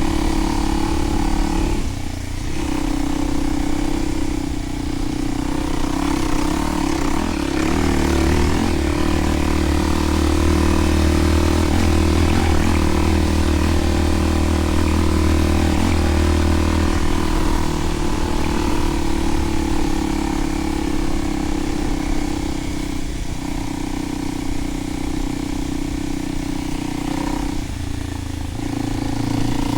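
Kawasaki KLX300's single-cylinder engine running through a Delkevic 10-inch oval slip-on exhaust, holding fairly steady revs. The note dips briefly about two seconds in and again near the end.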